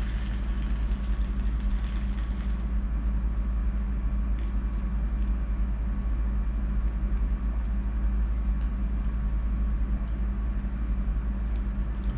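Steady low rumble with a constant hum, with a few faint clicks near the start.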